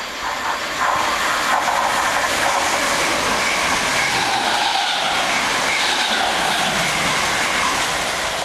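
Electric multiple-unit train running fast along the platform: a loud, steady rush of wheels on rail that swells about a second in and holds.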